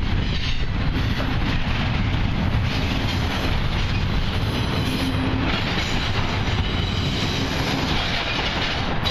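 Norfolk Southern double-stack intermodal freight train's container well cars rolling past close by: a steady, loud noise of steel wheels running on the rails.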